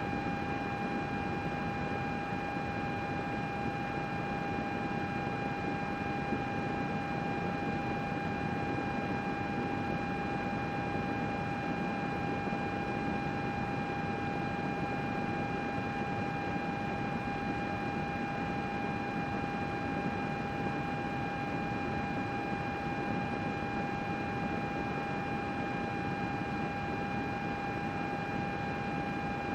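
Computer's cooling fans running steadily: an even whoosh with a high, unwavering whine on top.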